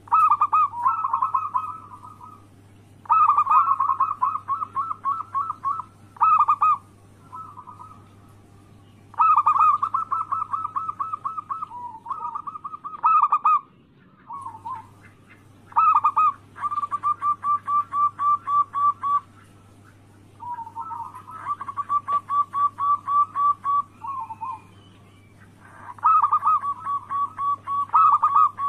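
Zebra doves (perkutut) singing: phrases of rapid staccato cooing notes, each lasting a second or a few seconds, repeated with short pauses, over a faint steady low hum.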